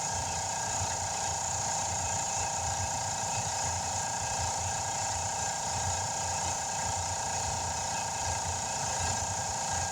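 A motor running steadily under a continuous hiss, unchanged throughout, heard while a tire bead is being worked to seal on its rim.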